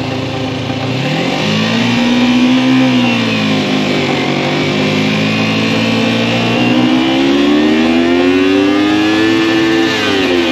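Motorcycle engine idling, then pulling away about a second in: the revs rise, ease back around three seconds in as it shifts up, climb slowly again, and drop sharply near the end at another gear change.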